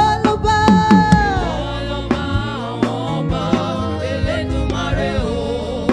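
Live Yoruba gospel praise music: a singer holds a long note that slides down about a second in, over a band with steady bass and regular drum hits.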